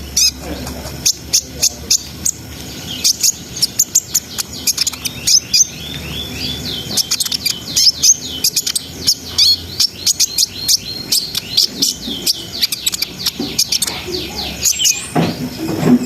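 Kolibri ninja (konin) sunbird singing: a rapid, unbroken stream of high, sharp chips and twittering trills, with runs of quick downward-slurred notes.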